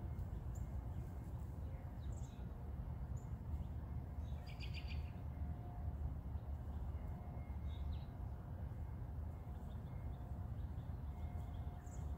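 Outdoor ambience of a low steady rumble with a few small birds chirping briefly, the clearest call a short chirp about halfway through.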